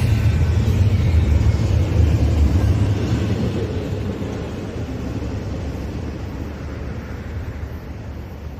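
Double-stack intermodal freight train rolling past and away: a low rumble of steel wheels on the rails that fades steadily as the last cars recede.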